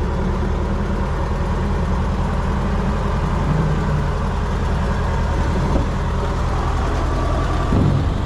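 Heavy truck diesel engine running steadily, a continuous low rumble.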